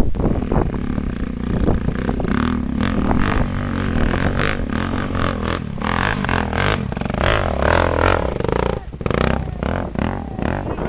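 Dirt bike engine revving up and down unevenly, with a brief drop in the sound about nine seconds in.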